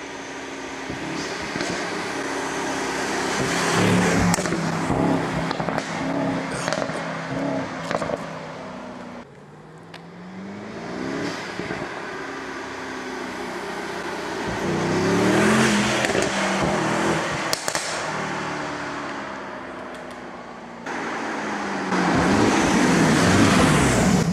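Mercedes-AMG E63 S twin-turbo V8 accelerating hard along the road and past the roadside microphone. The engine note climbs in pitch, drops at each upshift and climbs again, swelling loudest as the car comes close, about four seconds in, around the middle and near the end.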